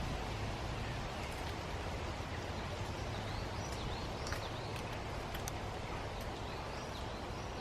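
Outdoor woodland ambience: a steady rushing noise, with faint high chirps from about three seconds in and a few small scattered clicks.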